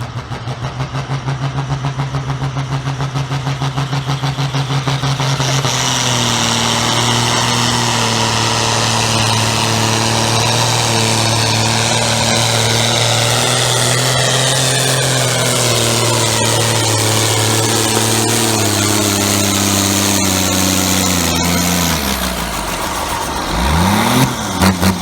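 A competition pulling tractor's engine running hard through a pull. It goes to full throttle about five seconds in, and its revs then sag slowly and steadily as it drags the sled down the track. The throttle comes off about 22 seconds in, followed by a few short revs of the engine near the end.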